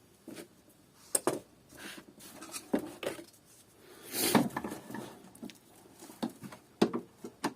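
Scattered light knocks, clicks and clinks of hands handling things, with a longer rustle about four seconds in.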